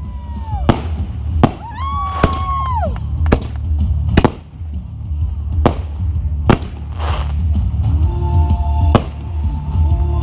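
Fireworks going off in a string of sharp bangs, over loud music with a heavy bass. A held whistling tone rises and falls away about two seconds in.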